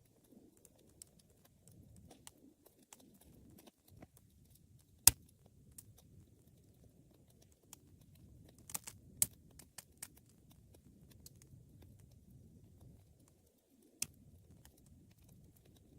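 Wood fire burning with a low soft rumble of flame and scattered sharp crackles and pops, the loudest about five seconds in and a few more near the middle.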